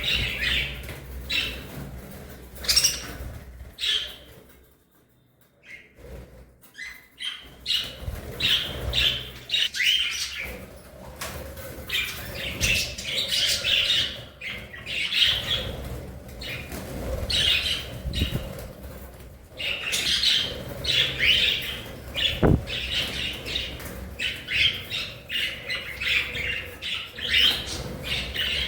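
A flock of budgerigars chirping and warbling in rapid, overlapping calls, with wing flaps as they fly about. The calls drop away briefly about five seconds in, then pick up again.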